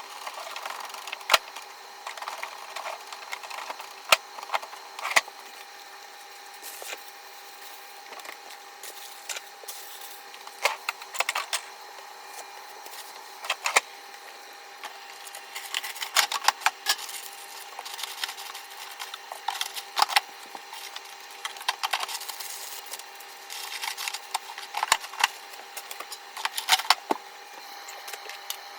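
Food packs and containers being handled and put away in a refrigerator and freezer: scattered clicks, knocks and rustling, in clusters, over a steady hum.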